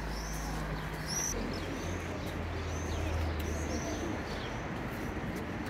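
Birds calling overhead: short, high-pitched chirps repeated every second or so, over a low steady rumble.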